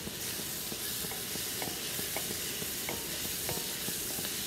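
Chopped onions and peppers sizzling in melted butter in a pan while a wooden spatula stirs them, with light knocks of the spatula against the pan every half second or so.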